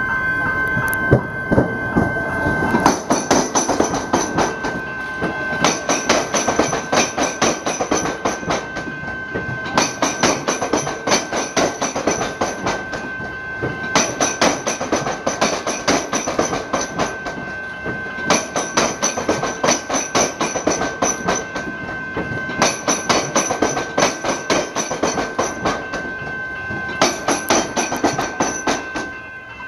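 A train's wheels running over the tram-square crossing, where tram tracks cross the railway: dense clattering in repeated groups about every four seconds, with short lulls between, over a steady high whine.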